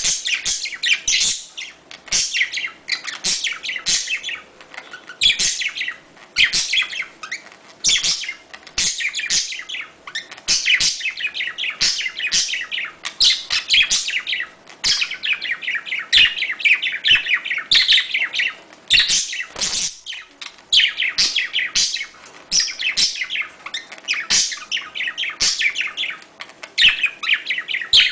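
Budgerigars chirping and warbling without pause, a dense run of quick high chirps.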